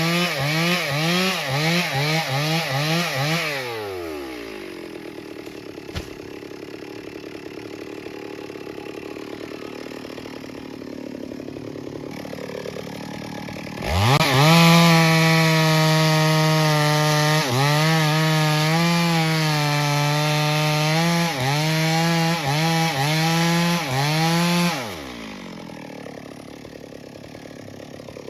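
Two-stroke chainsaw running at full throttle in a cut, its engine speed dipping briefly again and again as the chain loads up in the wood. It drops to idle about four seconds in, revs back up into the cut about fourteen seconds in, and falls back to idle near the end.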